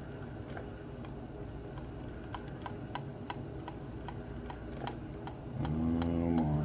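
Motel single-serve coffee maker at work brewing: a steady low hum with regular ticking, two or three ticks a second, then about five and a half seconds in a louder pitched hum starts as the machine pushes the heated water through.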